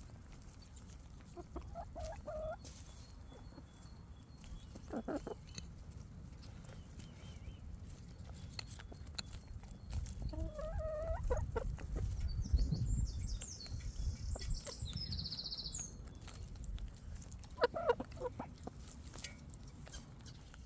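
Chickens clucking now and then in short separate calls, over a low rumbling noise that swells in the middle, with a brief high twittering about two-thirds of the way through.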